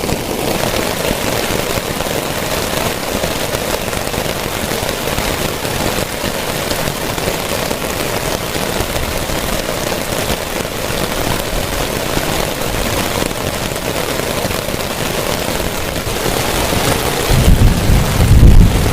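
Heavy rain falling steadily, with a loud low rumble of thunder building near the end.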